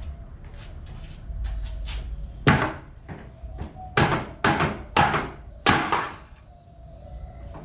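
Sharp knocks on wooden pallet boards as a pallet is knocked apart: one blow about two and a half seconds in, then four more about half a second apart.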